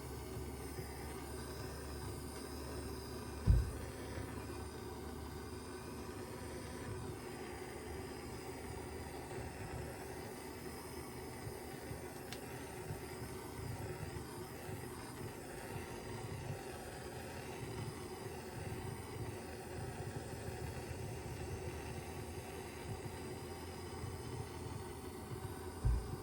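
Steady low rumble, with two short dull thumps: one a few seconds in and one at the very end.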